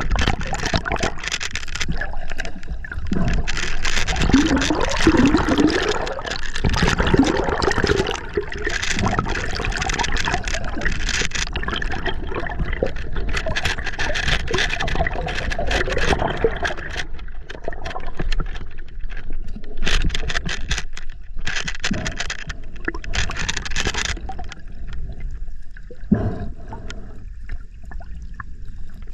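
River water gurgling and splashing close to the microphone, in uneven surges.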